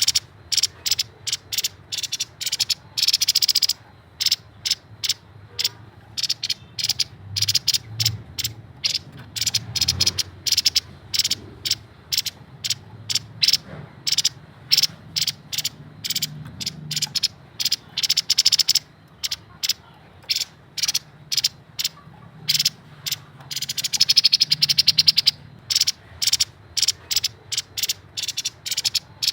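Grey-headed babbler (tepus kepala abu) calling in fast, rapid-fire chattering rattles, with denser bursts about three seconds in, near the middle, and again a few seconds before the end.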